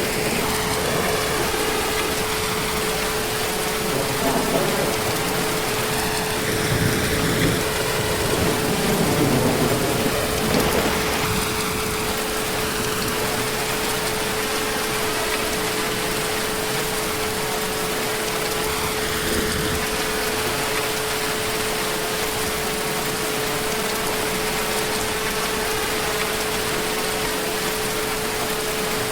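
Heavy, steady rain, with a rolling rumble of distant thunder swelling between about four and eleven seconds in. A thin steady tone runs underneath throughout.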